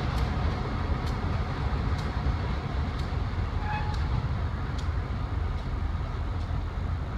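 Freight train's diesel locomotive and cars rumbling as they move away, a steady low rumble with faint sharp clicks about once a second from the wheels on the rails.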